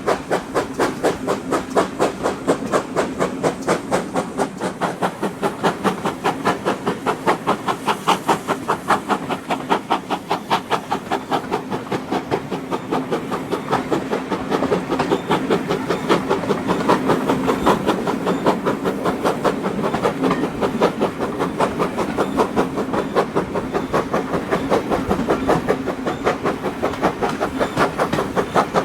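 Steam locomotive No. 9351, a two-cylinder GWR-style 2-6-0, working under steam with an even exhaust beat of about five chuffs a second over a steady hum of the moving train.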